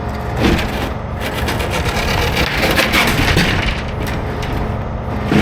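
Heavy tow truck's diesel engine running steadily under irregular creaking, cracking and scraping from the wrecked box truck's body as it is strained by the rigging.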